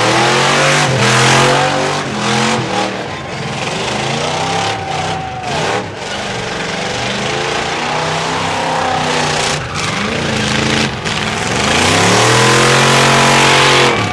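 Hot-rod roadster's engine revving hard through a tyre-smoking burnout, its pitch rising and falling again and again over the rushing noise of the spinning rear tyres. The longest, loudest climb in revs comes near the end.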